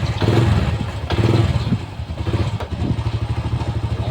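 Motorcycle engine idling with an even low putter, swelling twice in the first second and a half before settling.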